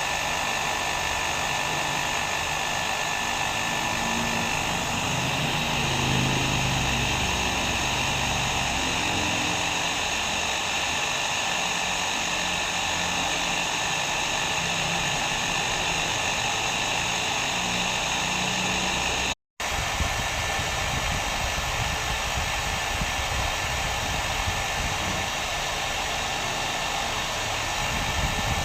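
Electric hair dryer running steadily on a continuous blast of air, with a faint whine over the rushing noise and a low motor hum. About two-thirds of the way through the sound cuts out for a split second and then resumes unchanged.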